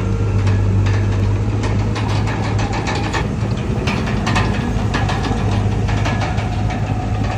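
Komatsu D31PX crawler bulldozer's diesel engine running steadily, with repeated metallic clanks from the machine at work.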